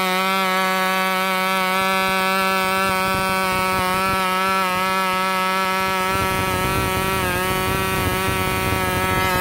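G-Mark .12 twin-cylinder model glow engine running steadily at high speed, turning a 7x6 propeller, with a high, even buzzing note. Its pitch holds steady, sagging slightly for a moment about seven seconds in.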